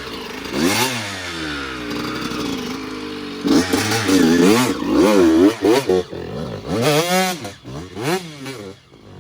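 Dirt bike engine revving. It rises and falls once about a second in, then blips up and down in quick repeated bursts from about three and a half seconds.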